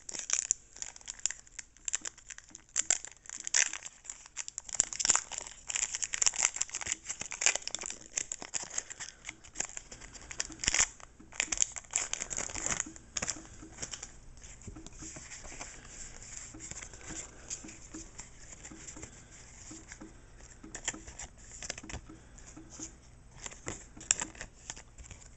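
Plastic foil wrapper of a Pokémon booster pack being torn open and crinkled, with sharp irregular crackling for about the first half. After that come quieter rustling and light ticks as the cards are handled.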